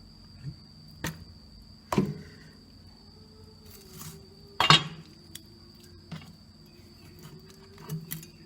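Scattered knocks and clinks of dishes and utensils being handled during food preparation, the loudest a little under five seconds in, over a steady high-pitched whine.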